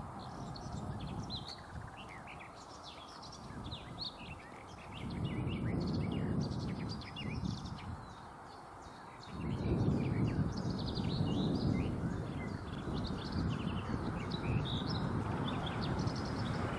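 Many birds singing and chirping, over a low rumble that swells about five seconds in and grows louder from about halfway through.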